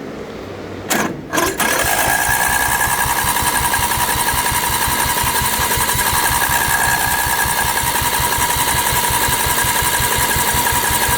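A lawn tractor's electric starter, engaged by jumping the solenoid, kicks in about a second in after a brief false start, then cranks the swapped-in engine steadily: a constant whine over even, slow compression pulses, without the engine firing. The owner puts the failure to start down to the newer engine's solenoid not getting power.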